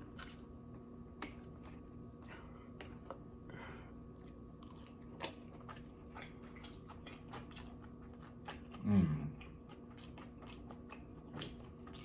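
Close-miked chewing of a sushi roll: many small irregular mouth clicks and soft bites, with a short hum of enjoyment falling in pitch about nine seconds in.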